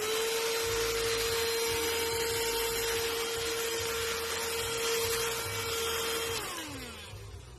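Cordless handheld car vacuum cleaner running: its motor holds a steady whine over a rush of air, then winds down with a falling pitch about six and a half seconds in.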